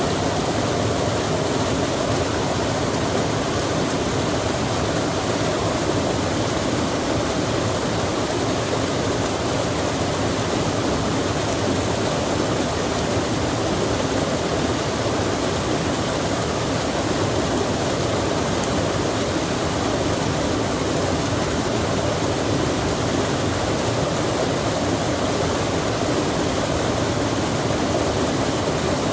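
Steady rushing of running water, an unbroken loud wash with no distinct splashes or other events.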